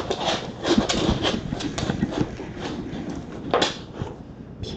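Irregular light taps and clicks, with a louder knock about three and a half seconds in.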